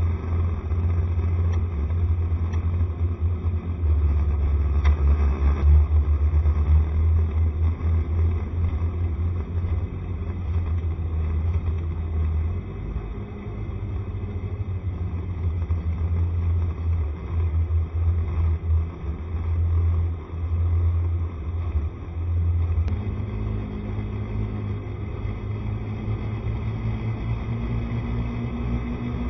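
Scooter being ridden on the road: heavy low wind rumble on the microphone over the engine and road noise. About two-thirds of the way through the rumble eases and a steadier engine hum comes through.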